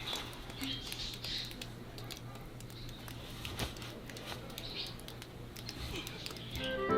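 Faint scattered ticks and soft rustling over a low steady hum, with music starting right at the end.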